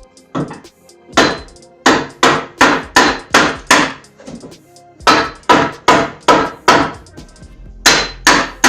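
A small hatchet striking wood in quick, even blows, about three a second: a run of about seven, a short pause, about five more, then two near the end.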